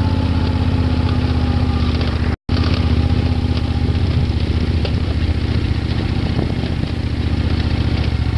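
Old Moto Guzzi V-twin motorcycle engine working hard at low speed up a steep, rough mountain track, with scattered knocks and rattles. The sound cuts out completely for a moment about two and a half seconds in.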